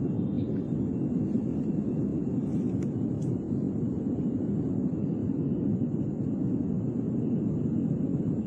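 A steady low rumbling roar from the erupting volcano, holding an even level, with two faint clicks about three seconds in.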